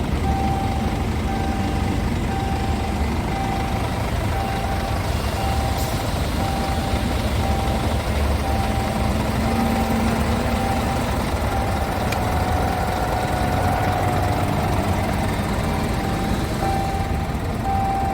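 Scania P truck's reverse alarm beeping at an even pace, about one beep a second, over the low steady running of its diesel engine as it backs up.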